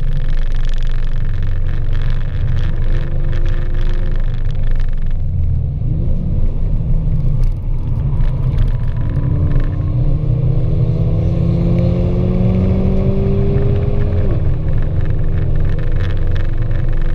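Mercedes-AMG A45's turbocharged 2.0-litre four-cylinder heard from inside the cabin, pulling hard with the engine note climbing and dropping at upshifts about four seconds in and again near the end, after a long rise. Under it runs a steady low road and tyre rumble.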